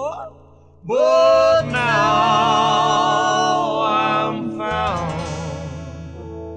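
Live band playing a slow gospel hymn: after a brief pause, a singer holds one long note with vibrato over steady held accompaniment, fading near the end.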